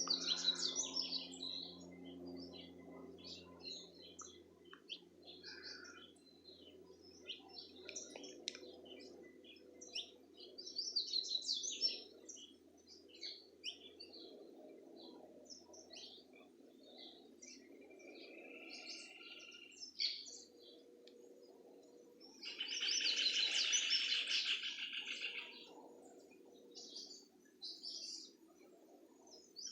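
Several wild birds chirping and singing, many short calls and trills overlapping. About 22 seconds in, one louder, harsh trilled call lasts about three seconds. A low steady hum runs underneath.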